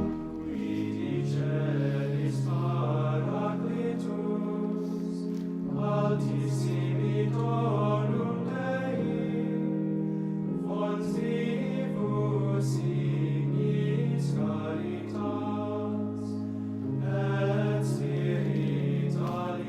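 Choir chanting a hymn in slow, held notes that move step by step from one pitch to the next.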